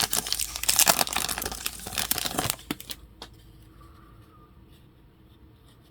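Plastic trading-card pack wrapper crinkling and rustling in the hands for about three seconds, then a few light clicks as the handling goes quiet.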